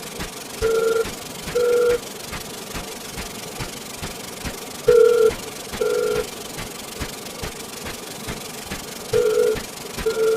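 Pairs of short electronic beeps, about a second apart, recurring roughly every four seconds over a steady hiss with quick ticking clicks.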